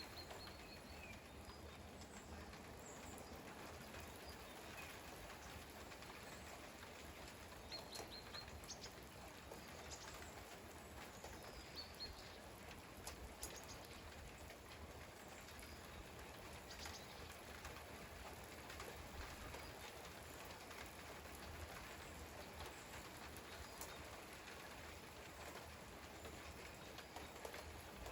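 Rain falling in a faint, steady patter, with scattered individual drips.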